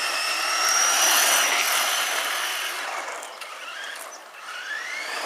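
Brushed electric motor and gears of a 1/10-scale RC monster truck whining as it accelerates away, the pitch rising and then holding before fading out after about three seconds. A second rising whine starts near the end as it speeds up again.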